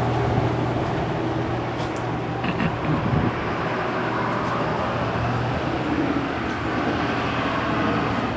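Street traffic: a motor vehicle's engine running steadily, with a few light clicks about two to three seconds in.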